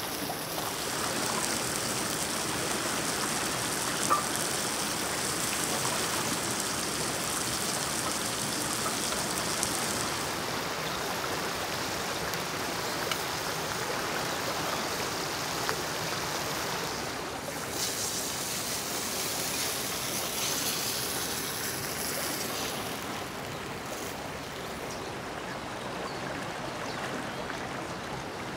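Salmon fillet and asparagus sizzling in oil in a frying pan over an open wood fire: a steady hiss with a few sharp pops and crackles.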